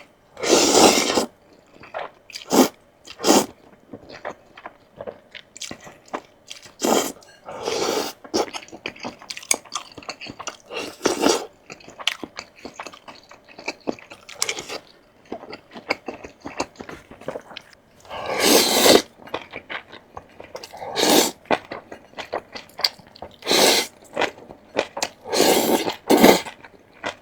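A person eating close to the microphone: biting and chewing crunchy food in irregular bites, with several louder bursts of crunching.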